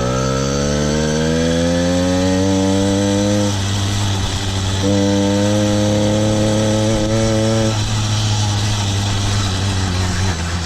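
Small two-stroke petrol engine of a kit-built motorized bicycle running just after a pedal start, its pitch rising as it pulls away. It eases off about three and a half seconds in, picks up again about five seconds in, eases off again near eight seconds and climbs again at the end.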